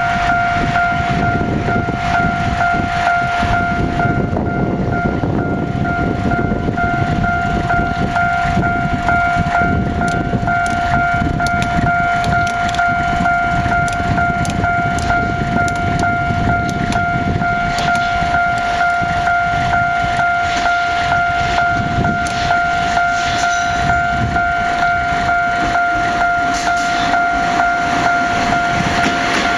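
Freight train passing with a low rumble and a fast run of wheel clicks over the rail joints. A steady high ringing tone runs under it and cuts off at the very end.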